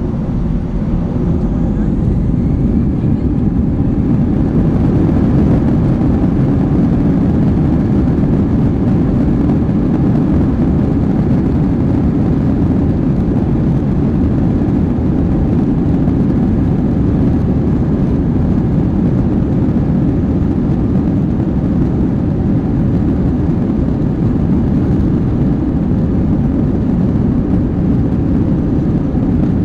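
Steady low rumble of an Airbus A321's jet engines and rushing air, heard from inside the passenger cabin. It builds slightly over the first few seconds, then holds level.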